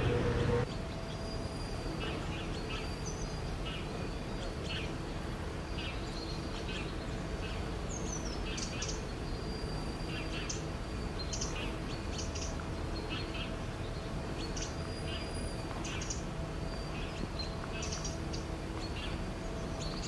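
Small birds chirping in short high notes, a few every second or two, over a steady low hum of background noise. A louder rumble cuts off abruptly just after the start.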